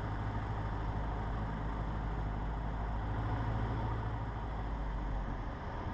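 Cessna 150's engine and propeller droning steadily inside the cockpit, at reduced power on a low final approach. The low drone shifts slightly near the end.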